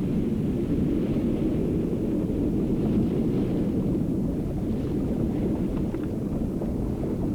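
Steady low rumble of rough sea and strong wind, with no distinct waves or other events standing out.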